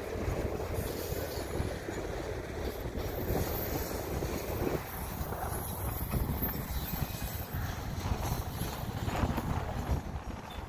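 CP freight train of autorack cars rolling slowly past, its steel wheels rumbling and clicking on the rails.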